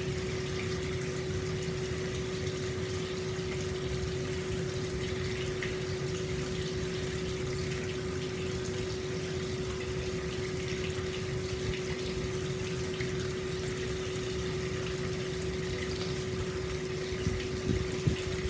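Hot spring water flowing steadily into an open-air bath, an even rushing splash with a steady hum beneath it. Near the end a few louder low knocks and gurgles break in.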